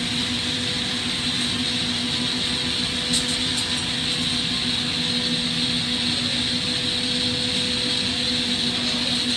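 Steady roar of a propane-oxygen glassworking torch, with a constant low hum under it and a brief light clink about three seconds in.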